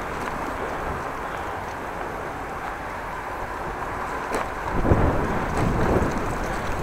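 Wind rushing over the microphone while cycling, a steady rush that swells into louder low buffeting gusts from about five seconds in.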